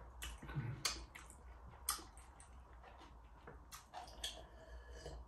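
Faint eating sounds: a few soft, scattered clicks and taps and a low thump about half a second in, as someone eats noodles.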